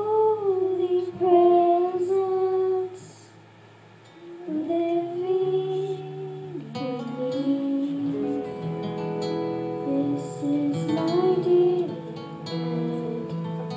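A woman singing a slow, sustained melody to guitar accompaniment, with a short break in the voice about three seconds in.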